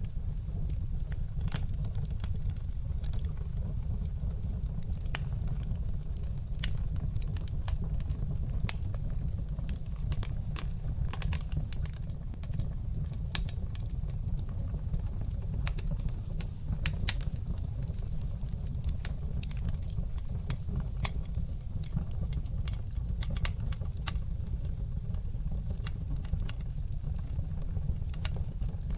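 A fire in a fireplace crackling: irregular sharp pops and snaps over a steady low rumble of the flames.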